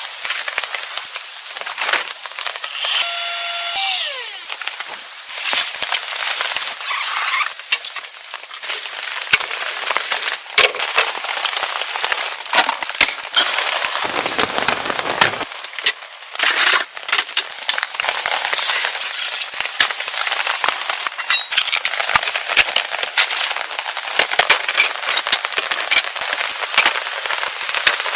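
Steady hiss with dense crackling and tapping from rain and outdoor camp cooking. A short ringing clink comes about three seconds in.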